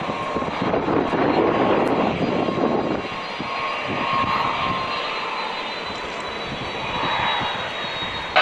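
Boeing 767-200ER's twin jet engines running at high thrust on departure: a steady rushing roar with a faint high whine over it, a little louder a second or two in.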